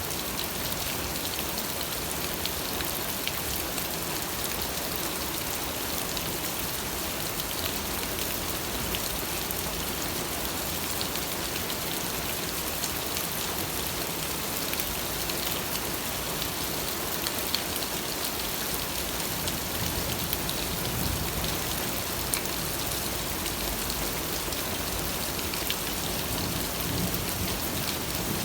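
Steady rain falling, an even hiss with scattered drop ticks. A low rumble of thunder builds in the last third.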